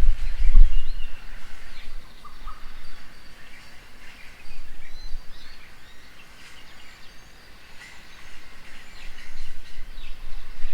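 Several birds chirping and calling in short, scattered notes, over a low rumble that is loudest in the first second or so and then fades.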